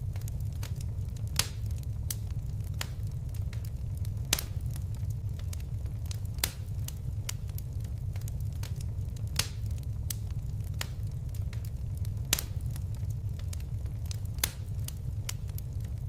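A fireplace fire crackling over a steady low rumble, with irregular sharp pops, a handful of them louder than the rest.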